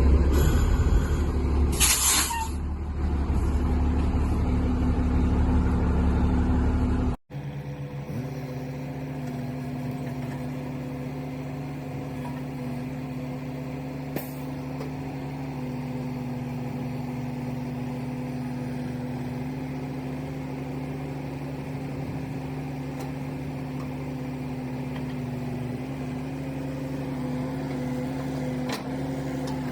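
Heavy plow truck's engine running, with a short sharp air hiss about two seconds in. After a sudden break near a third of the way through, a quieter, steady engine drone.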